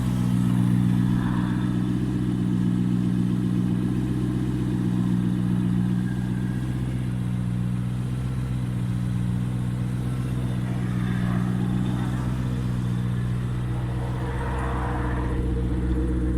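The twin-turbo V8 engine of a 2000 Maserati 3200 GT idling steadily.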